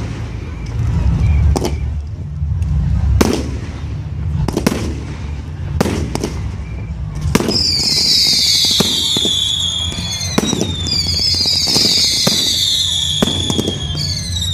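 Fireworks display: sharp bangs of bursting shells about every one and a half seconds, then from about halfway whistling fireworks, several long whistles one after another, each falling in pitch, with more bangs among them.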